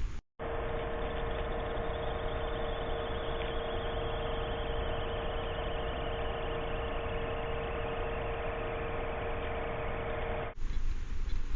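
A steady, unchanging machine-like hum holding two constant tones, starting after a brief silence and cutting off about ten and a half seconds in.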